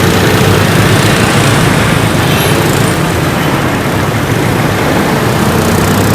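Steady, loud motor-vehicle noise: a running engine and traffic rumble, even and unbroken.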